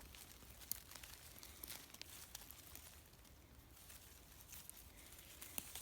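Faint rustling and a few small clicks of low forest-floor plants as lingonberries are picked by hand, near silence otherwise.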